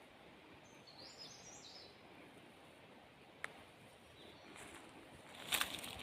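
Outdoor ambience with a small bird giving a quick run of high chirps about a second in. A sharp click comes about halfway through, and a louder burst of rustling noise near the end.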